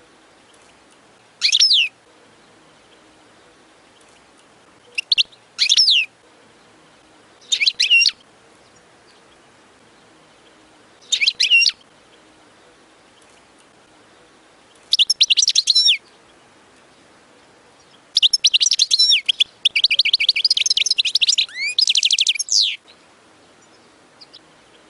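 European goldfinch singing: short bursts of quick, gliding twittering notes every few seconds, then a longer run of rapid, dense twitters and trills lasting about four to five seconds near the end.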